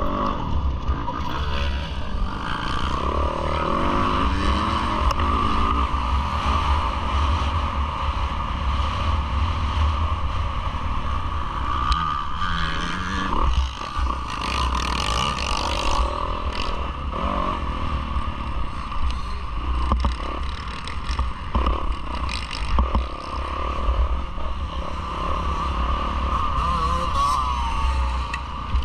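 Yamaha YZ450F four-stroke single-cylinder motocross engine revving up and down repeatedly, heard from a camera on the bike or rider, with heavy wind rumble on the microphone.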